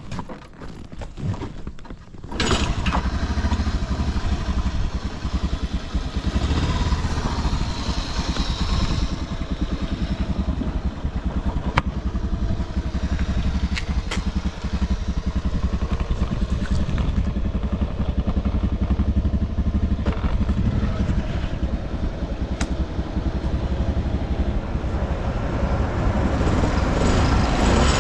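Honda Motra AD05's small single-cylinder four-stroke engine catching about two seconds in, after a few knocks, and then idling steadily, a little louder near the end. It runs quietly with no abnormal noise, as the seller describes it.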